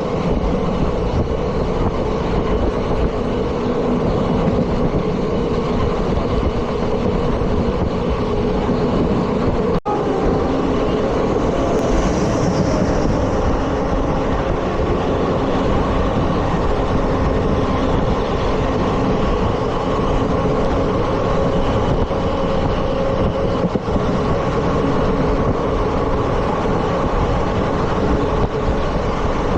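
Indian Railways ICF passenger coach running at speed on the track: a steady loud rumble and rattle of wheels and coach body, with a low steady hum through it. The sound cuts out for an instant about ten seconds in.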